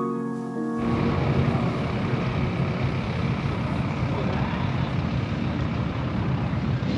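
A piano tune ends within the first second, replaced by a steady vehicle rumble of engine and road noise.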